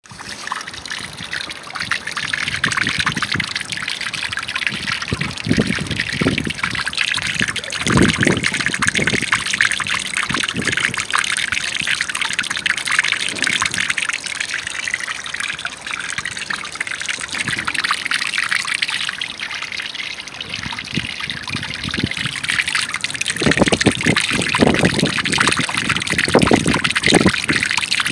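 Running water trickling and splashing steadily, with deeper splashes now and then, most of them near the end.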